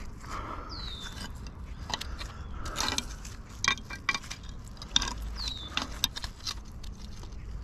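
Small pieces of scrap metal, nails and a horseshoe stuck to a fishing magnet, clinking and scraping as they are handled, in a run of irregular sharp clicks. Two short falling chirps come from a bird, one about a second in and one past the middle.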